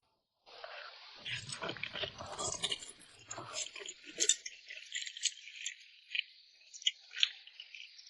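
Close-up mouth sounds of someone eating rice noodles in chili oil: chewing with wet smacks and clicks. It starts after a brief silence, and about halfway through the fuller chewing sound drops away, leaving only light, crisp mouth clicks.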